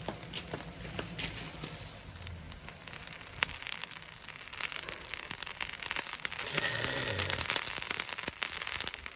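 Hairtail fish grilling over a wood fire: a steady sizzle with many small crackling pops from the burning wood and dripping fat. It grows louder after about three seconds.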